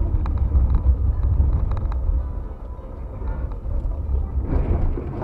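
Low, steady rumble of a car driving, with engine and road noise, and a rougher, noisier stretch near the end.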